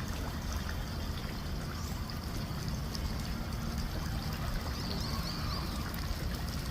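Water trickling and flowing steadily, over a steady low rumble.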